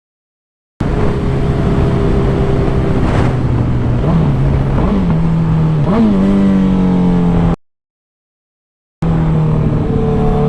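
Suzuki motorcycle engine running under way, its pitch jumping up several times between about four and six seconds in as it revs. The sound starts abruptly and cuts out completely for over a second near the end before the engine is heard again.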